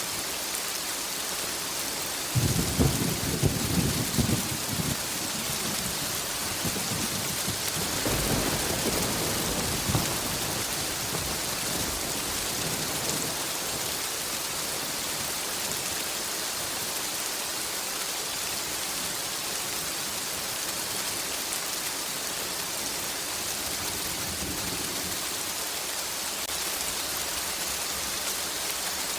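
Steady rain hissing, with two rolls of thunder rumbling through it: the first about two seconds in and lasting a few seconds, the second around eight seconds in, fading by about ten seconds.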